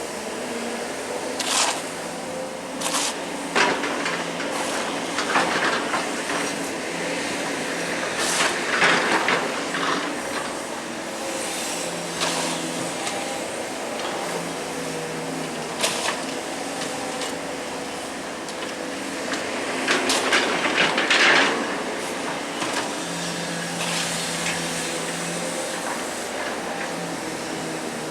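Hydraulic excavator's diesel engine running steadily, with scattered knocks and two louder scraping bursts, about eight seconds in and again about twenty seconds in.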